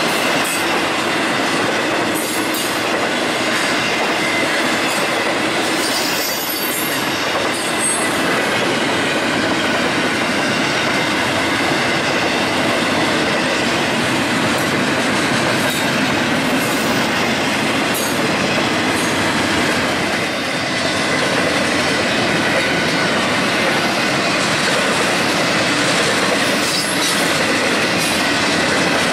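Union Pacific double-stack intermodal freight train passing close by: a steady rumble of steel wheels on rail, with a thin wheel squeal and scattered sharp clicks from the passing cars.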